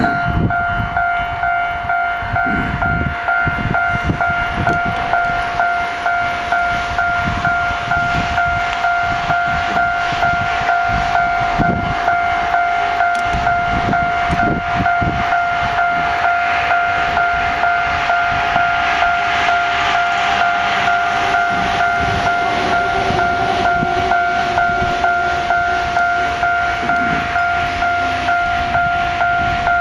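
Freight train passing, its wheels knocking irregularly over the rail joints, with a rushing rumble that grows from about midway. A steady, evenly pulsing two-tone ringing runs underneath, like an electronic level-crossing alarm.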